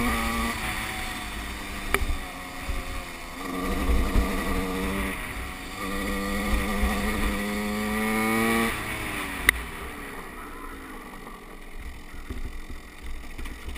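Motocross bike engine revving up in a few pulls, its pitch rising through each, then dropping back to a quieter stretch, with a low rumble underneath and a single sharp click about nine and a half seconds in.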